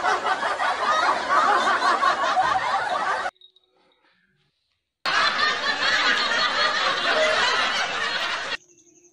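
Recorded laughter in two stretches of about three seconds each, separated by a short silence. Each stretch stops abruptly.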